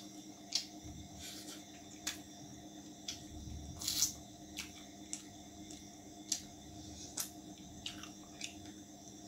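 Close-up eating sounds of a man eating roti with chicken curry by hand: wet chewing and lip smacks heard as irregular sharp clicks, with a louder squelchy bite about four seconds in. A faint steady hum runs underneath.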